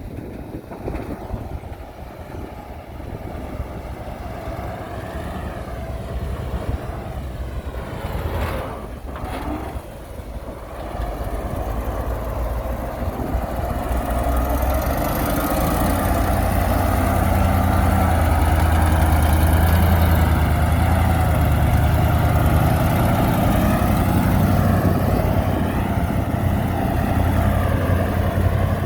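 Heavy diesel engine of a construction machine running, growing louder through the first half and then holding a steady low drone.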